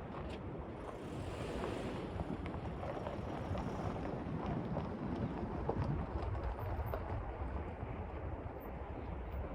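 Wind buffeting the microphone: a steady low rumble and rush.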